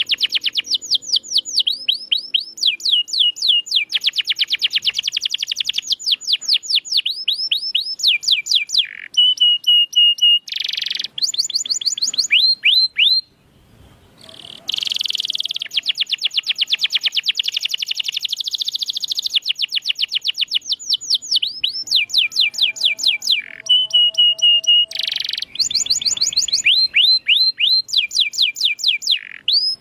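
Domestic canary singing: fast rolling trills of repeated downward-sweeping notes, some held steady and buzzy, with a brief pause about 13 seconds in.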